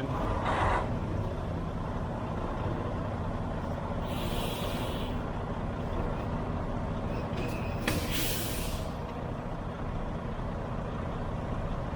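Diesel truck engine running steadily at low speed, with two short bursts of air hiss from the truck's air brake system, about four and eight seconds in.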